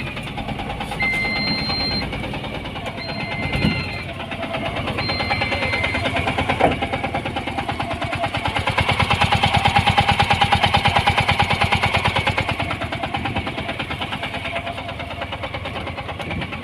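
Mahindra Jeeto S6-16's single-cylinder diesel engine running just after start-up, with an even diesel clatter. Three short electronic beeps sound about two seconds apart in the first few seconds. About halfway through the engine is revved up and then settles back toward idle.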